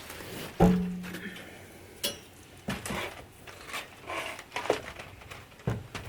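Wooden firewood logs being set down one by one on a pile of sticks and crumpled newspaper: a series of knocks and thuds, the loudest about half a second in with a short ringing after it, and some paper rustling in between.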